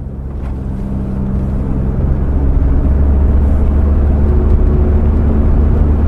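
A low, rumbling noise effect closing a pop track, rising in loudness over the first few seconds and then holding steady.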